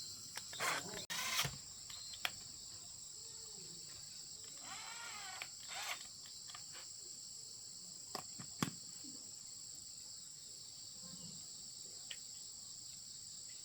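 Steady high-pitched chirring of insects, with a few sharp clicks and knocks, the loudest about a second and a half in and again near nine seconds.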